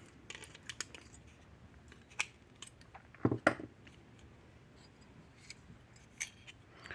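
Sparse small clicks and snips from hand tools and wires being handled at a workbench, with a louder close double click about three and a half seconds in.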